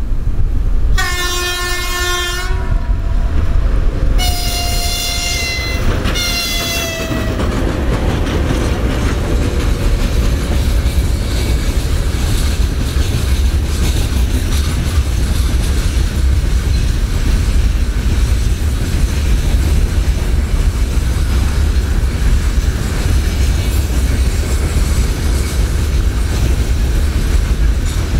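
Russian electric locomotive sounding its horn twice as it approaches: a short blast, then a longer one that drops in pitch as it passes. A long freight train of gondola wagons follows, rolling by with a steady rumble and clatter of wheels over the rail joints.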